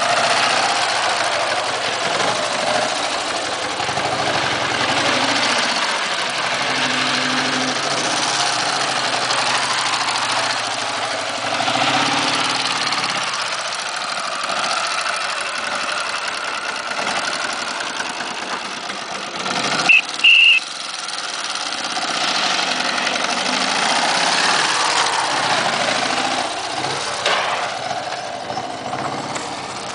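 Ural sidecar motorcycle's boxer-twin engine running, its level swelling and easing over the stretch. About twenty seconds in, a brief loud high-pitched squeal stands out above it.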